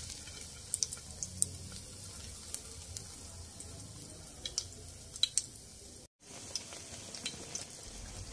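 Egg-dipped bread slice frying in shallow hot oil in a pan: a steady sizzle with scattered sharp pops and crackles, briefly cutting out about six seconds in.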